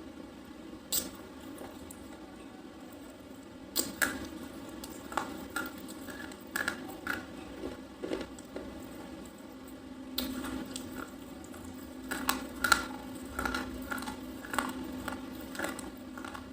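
A soft red slate pencil bar being bitten and chewed close up: one sharp crack about a second in, then a run of irregular crunches from about four seconds on.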